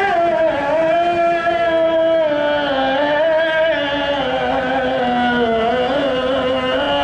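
A single voice chanting Arabic Quranic recitation, drawing out one long melismatic phrase that slowly wavers and glides in pitch.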